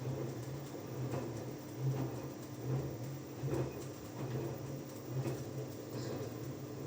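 Front-loading washing machine in its wash cycle: the motor turns the drum, and the wet laundry tumbles and sloshes in an uneven low rumble with soft knocks. The drum starts turning just as the sound begins.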